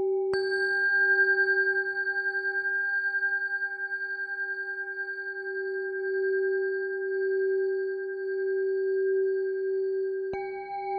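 Tibetan singing bowl tuned to G ringing with a steady tone that pulses slowly in loudness. It is struck shortly after the start and again near the end, each strike adding bright higher overtones.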